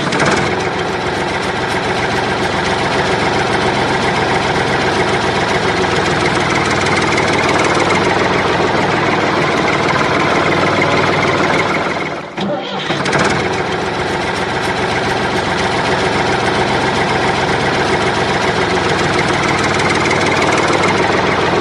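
Vehicle engine running steadily at idle, with a brief drop-out about twelve seconds in before it carries on.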